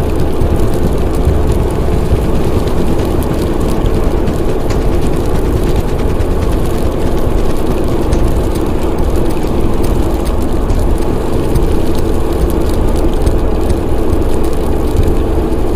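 Vehicle engine running at a steady drone, with no revving or change in pitch, used as a driving sound effect.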